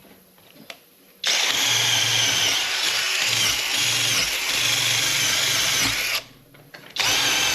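Electric drill spinning a wire brush against the engine's head gasket surface, scrubbing off old gasket material. It starts about a second in, runs steadily for about five seconds, stops briefly, and starts again near the end.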